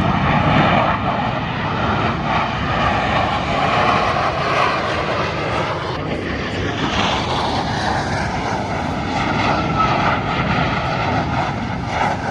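Fixed-wing airplane engine noise, loud and steady, as an aircraft flies.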